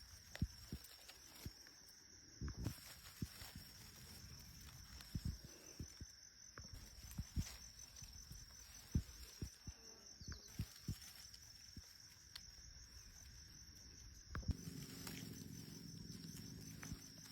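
Scattered soft knocks, thumps and rustles of someone moving over the forest floor and picking mushrooms, over a steady high insect drone. A low hum joins near the end.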